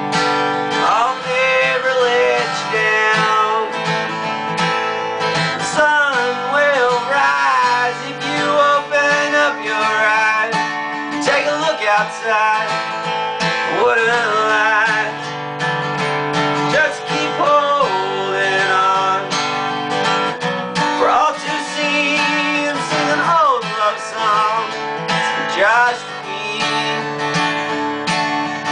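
A song played on strummed acoustic guitar, with a wavering melody line over the chords.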